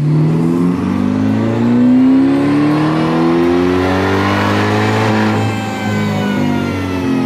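Supercharged C8 Corvette Stingray's LT2 V8 under a wide-open dyno pull, its pitch climbing steadily. The pitch drops sharply about five seconds in and then climbs again.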